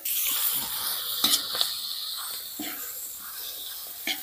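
Chicken pieces sizzling in hot oil and curry paste in a wok. The sizzle comes in sharply, then slowly settles lower, with a few light knocks as the meat is stirred.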